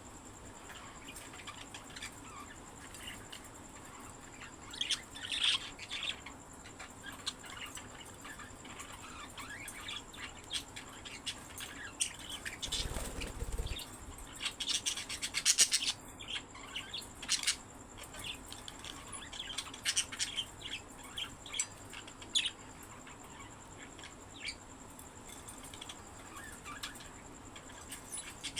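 Pet budgies chirping and twittering in short irregular bursts, busiest around the middle. A brief dull low thump comes a little before the middle.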